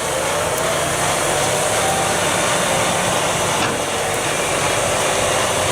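Wood chipper running steadily under load, a loud continuous mechanical noise with a faint tone that slowly rises in pitch.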